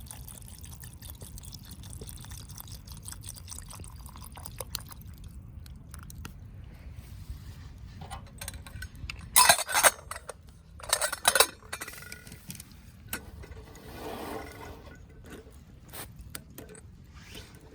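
Camp cooking sounds of cookware and utensils being handled, with two short loud clattering noises a little past halfway and a softer scraping sound a few seconds later, over a steady low background noise.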